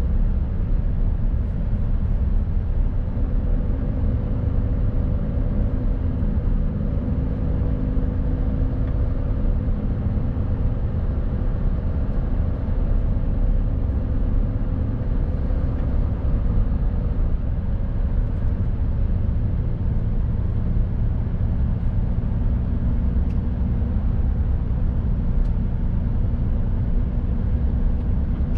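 Mercedes Actros truck's diesel engine running steadily under way, with a deep, even rumble of engine and road noise and a faint engine hum that shifts slightly in pitch.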